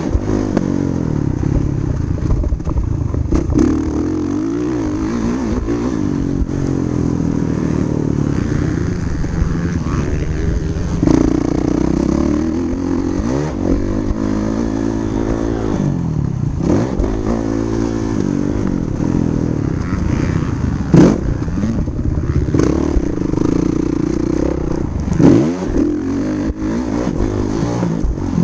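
Motocross dirt bike engine revving hard and repeatedly rising and falling in pitch as it accelerates, shifts and rolls off around the track. There are a couple of sharp knocks, one about two-thirds of the way in and another a few seconds later.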